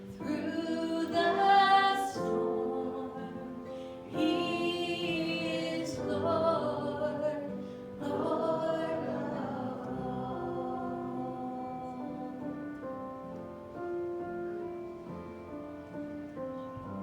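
A choir singing a gospel song with instrumental accompaniment; the voices drop away about ten seconds in and the accompaniment carries on with steady held notes.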